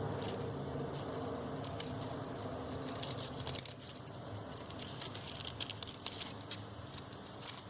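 Faint rustling and small scattered crackles of crepe paper and paper flowers being handled. A steady low background rumble stops about three and a half seconds in.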